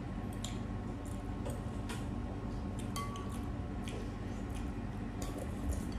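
Close-up mouth sounds of chewing noodles, with scattered sharp clicks and clinks of a metal fork and plastic spoon against a glass bowl, over a steady low hum.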